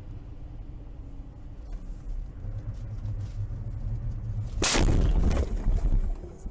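Low, steady rumble of a vehicle on the road, then a sudden loud crash about four and a half seconds in, with a noisy crunch lasting a second or so: a vehicle collision caught on a dashcam.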